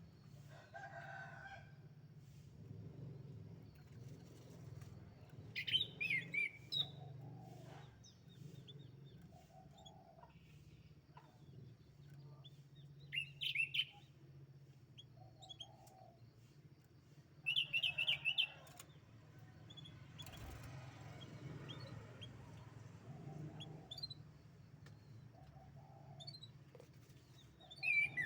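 Canary singing in short bursts of rapid high trills and chirps, four phrases several seconds apart, over a faint steady low hum.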